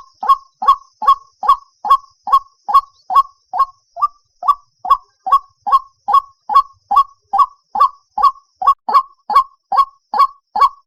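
White-breasted waterhen calling a loud, monotonous 'kwaak' over and over, about three calls a second in an even rhythm: the March lure call used to draw waterhens into nets at night.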